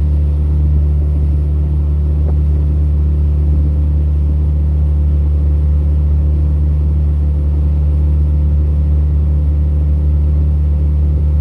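Tohatsu 20 hp EFI four-stroke outboard motor running steadily at cruising speed, a loud, even low drone with no change in pitch.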